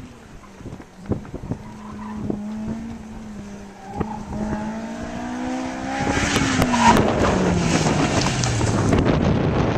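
A sports car's engine is heard approaching under power, its note climbing slowly. It gets much louder about six seconds in, then the pitch drops steadily as the car passes by.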